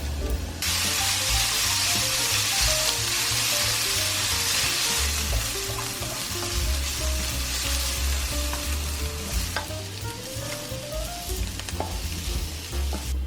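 Food frying in a hot pan, a steady sizzle that starts about half a second in and cuts off suddenly near the end.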